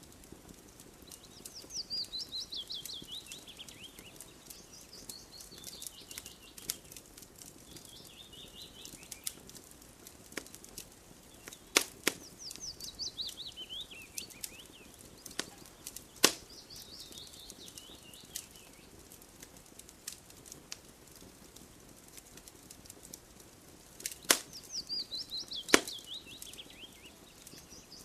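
Wood fire crackling, with sharp pops every few seconds, some much louder than the rest. Over it a bird repeatedly sings a short phrase of quick notes falling in pitch, about five times.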